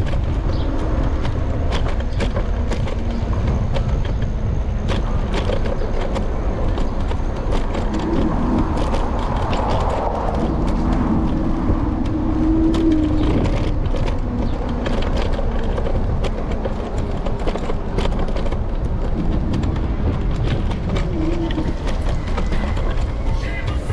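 Riding noise picked up by a camera on an electric scooter's handlebars: steady low wind and road rumble with frequent sharp clicks and rattles as it runs over the pavement. A pitched hum comes and goes around the middle.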